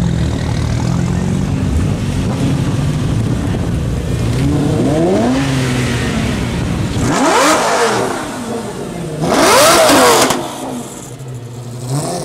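Lamborghini Gallardo's V10 engine with an aftermarket Lamborghini Orange County exhaust, idling and then blipped three times. Each rev rises and falls in pitch and each is louder than the one before, the last about ten seconds in. The engine then drops back to idle.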